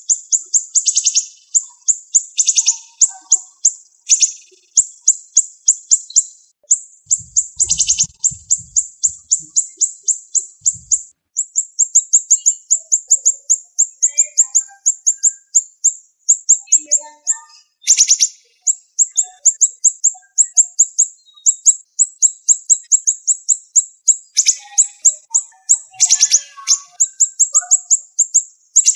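Siri-siri songbird singing rapid, high-pitched ticking trills in close-packed bursts with brief gaps, now and then broken by a louder sweeping note.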